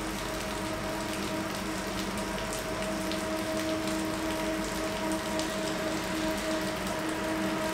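Steady rain hiss, with a steady drone from the KiwiRail Northern Explorer passenger train alongside the platform as it slowly pulls away.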